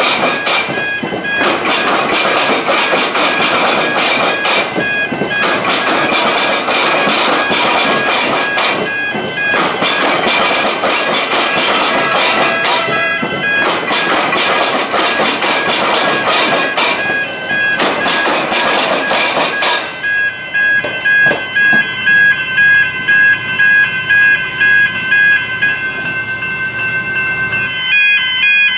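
Level crossing warning bells ringing in a regular pulse while a train runs through the crossing. The train noise ends about two-thirds of the way in, leaving the bells ringing alone at about one and a half strokes a second.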